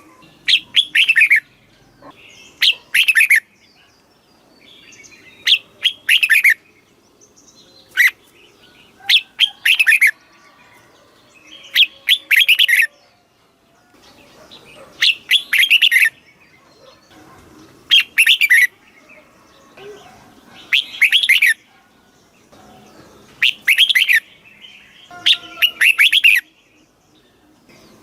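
Red-whiskered bulbul singing its short, clear phrases, each a quick run of falling whistled notes, repeated about every two to three seconds.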